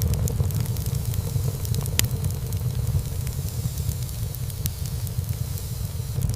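Wood fire burning in a fireplace: a steady low rumble of flames with scattered sharp crackles and pops of burning wood, one louder pop about two seconds in.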